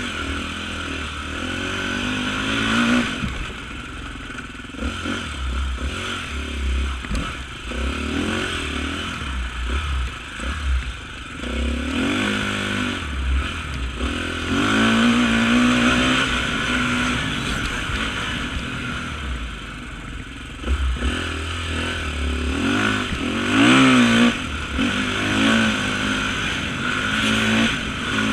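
Off-road motorcycle engine revving up and falling back again and again, as in riding through a cross-country course.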